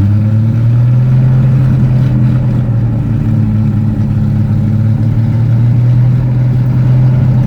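Carbureted engine of a 1974 GMC truck running just after a cold start at -5 °F, its speed stepping up at the start and then holding steady. Oil pressure is still building in the cold 20W-50 oil.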